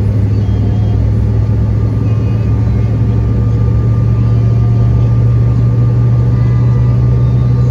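Steady low drone of a regional jet's engines heard inside the passenger cabin, its hum creeping slightly higher in pitch.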